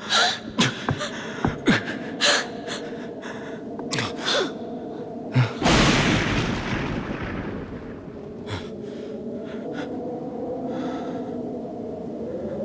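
Film action sound effects: a run of sharp hits with gasps and heavy breathing, and a sudden loud burst of noise about six seconds in that fades away over a couple of seconds, over a steady low drone.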